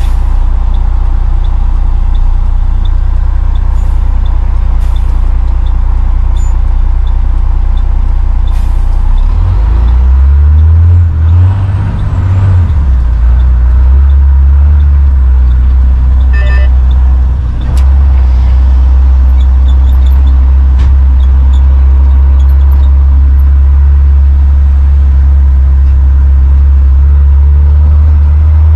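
Heavy truck's diesel engine droning loudly from inside the cab while driving. Its note climbs about ten seconds in and shifts again a few seconds later. A light regular ticking comes and goes over it.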